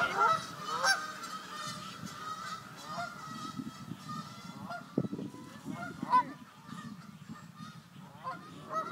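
Waterfowl calling with a scattered series of short honks, spaced about a second or more apart, over a low steady background noise.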